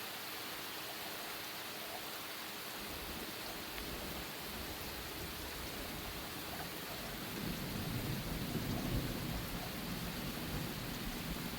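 Steady rain, with a low rumble of thunder building about seven seconds in and rolling on to the end.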